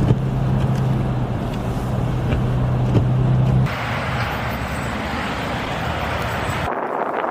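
A vehicle engine running with a steady low hum and rumble, then a steady rushing noise, with abrupt changes about four seconds in and again near the end.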